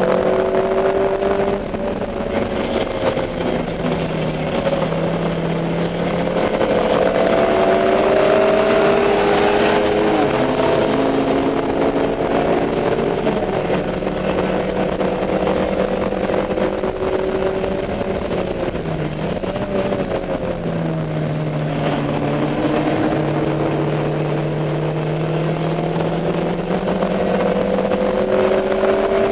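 Dodge Neon race car's four-cylinder engine heard from inside the car at racing speed. The engine note climbs and falls repeatedly, with several shifts and lifts over the lap.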